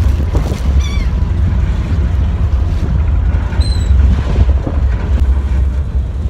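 Steady low rumble of a ferry under way with wind buffeting the microphone. Short high bird calls cut through about a second in and again near four seconds.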